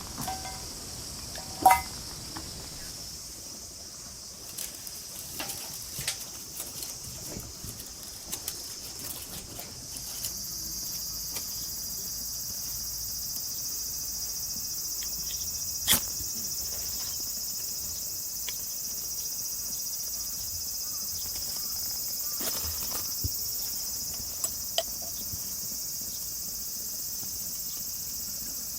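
Steady high-pitched chorus of insects that grows louder about ten seconds in, with scattered sharp clinks and taps. The loudest clink, with a brief ringing tone, comes about two seconds in.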